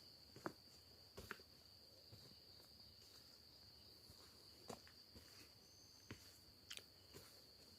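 Crickets giving a faint, steady high-pitched chirring, with a few faint scattered clicks on top.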